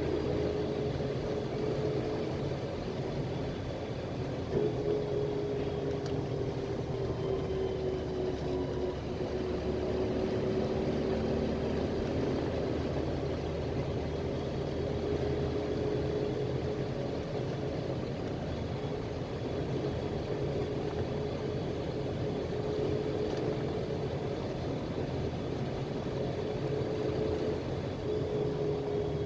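Cabin noise of a PAZ-320405-04 Vector Next bus under way: a steady low engine drone and road noise, with a thin whine that drifts slightly in pitch and breaks off briefly a few seconds in and again near the end.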